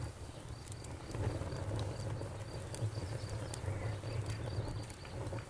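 Campfire crackling, with sharp pops scattered through a low steady rumble, while crickets chirp in a steady, even pulse.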